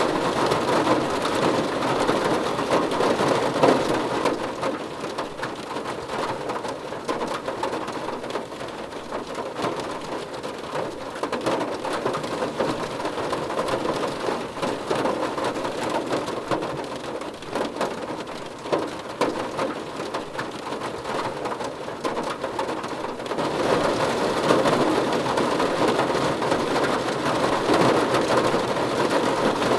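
Steady rain falling, heavier for the first few seconds, easing through the middle, then picking up again abruptly about three-quarters of the way through.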